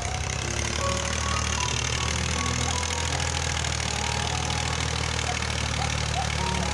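Massey Ferguson 240 tractor's three-cylinder diesel engine running steadily, with faint music over it.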